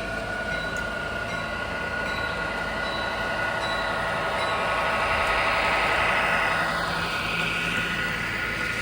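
Model train running along the layout track with a steady whine, growing louder as it passes close about six seconds in, then easing off.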